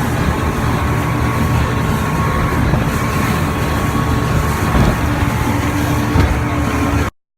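Motorboat engine running steadily under way, a dense low rumble with wind and water noise. It cuts off suddenly near the end.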